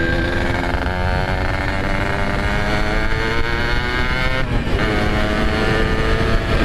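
Yamaha RX King 135cc two-stroke engine breathing through an aftermarket RBK exhaust, ridden under acceleration: the pitch climbs steadily, drops briefly about four and a half seconds in as it shifts up, then climbs again.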